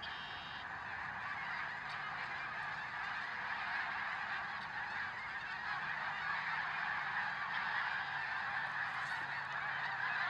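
A large flock of scarlet ibis calling as they come in to roost: a dense, continuous chatter of many bird voices that slowly grows louder.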